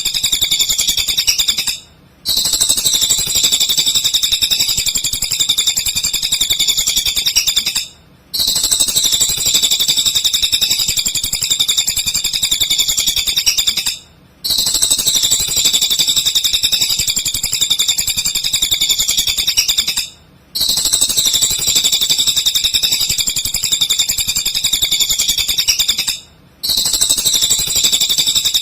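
Cililin songbird singing in full, fast, continuous high-pitched chattering, played as a looped masteran recording for training white-rumped shamas. The song breaks off briefly about every six seconds as the loop restarts.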